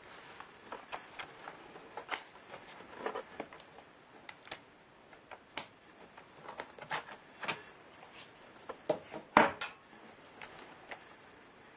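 Irregular clicks, taps and knocks from hard plastic and small parts as a Lenovo Y570 laptop is handled and taken apart, the loudest a sharper knock about nine and a half seconds in.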